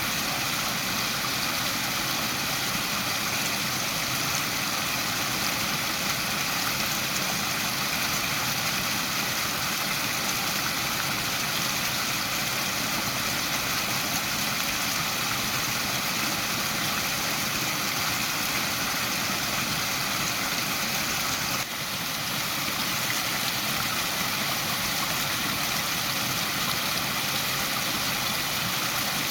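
Waterfall: a steady rush of falling water, with a brief dip in level about three-quarters of the way through.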